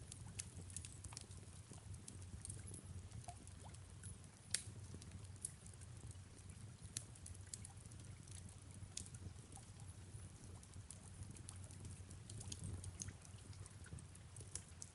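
Fireplace wood fire crackling, with faint irregular pops and snaps, the sharpest about four and a half seconds in, over a steady low rumble, with soft rain beneath.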